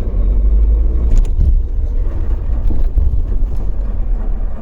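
Tata Nexon driving, heard from inside the cabin: a steady, heavy low rumble of road and drivetrain noise.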